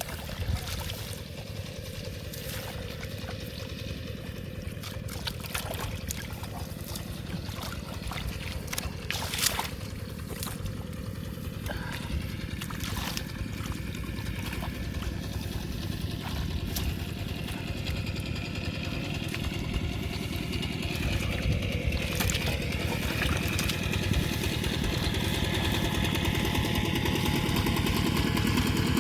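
A small engine running steadily and growing louder, with water trickling and a few sharp knocks.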